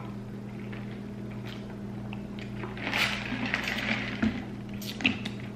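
Close-miked chewing and mouth sounds of eating corn on the cob, with a louder crunchy stretch about three seconds in and a few sharp clicks near the end, over a steady low electrical hum.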